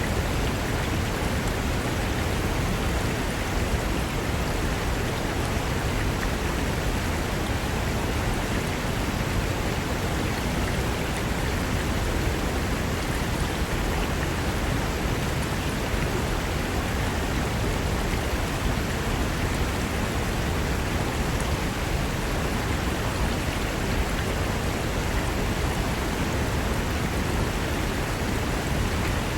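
Fast mountain river rushing over rocks: a steady, dense wash of water noise that does not change.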